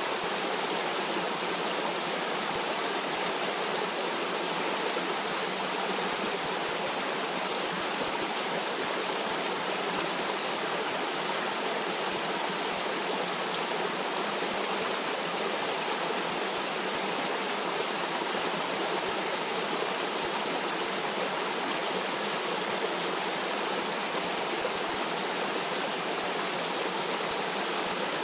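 Stream water flowing in a steady, even rush, with no distinct splashes or changes.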